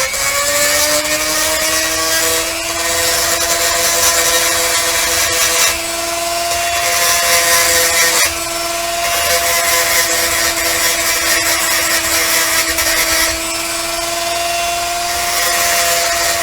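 Handheld rotary tool spinning up and then running steadily with a high whine, its bit cleaning up a pewter cast. A grinding hiss swells and drops several times as the bit is pressed onto the metal and eased off.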